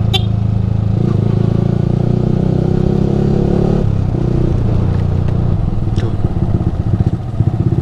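Yamaha R15 V3 motorcycle with a Ronin Musashi aftermarket exhaust, its 155 cc single-cylinder engine running under way. The engine note shifts in pitch about a second in and again near four seconds in, and the sound turns uneven near the end.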